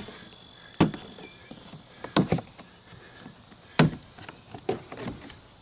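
Sharp knocks and taps on a plastic fishing kayak as it is handled and opened up to find what is rolling around inside: four louder knocks over a few seconds, with softer taps between.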